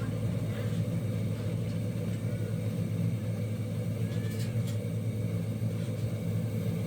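Steady low rumble of a running engine, with a few faint high chirps over it.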